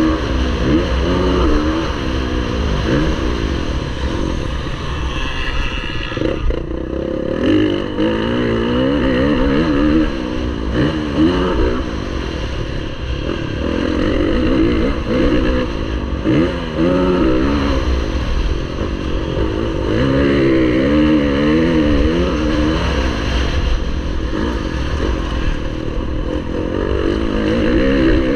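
Motocross bike engine racing on track, its revs climbing and dropping again and again through the throttle and gear changes.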